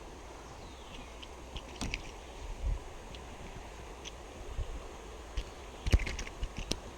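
Scattered light knocks and clicks from handling gear and a landed fish in a kayak, with a sharper knock about six seconds in, over a steady low rush of creek water.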